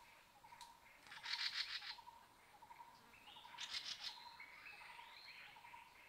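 Forest birds calling: two loud bursts of rapid chattering, about a second in and again at three and a half seconds, followed by a run of stepped whistled notes. A faint, evenly repeated low note keeps going in the background.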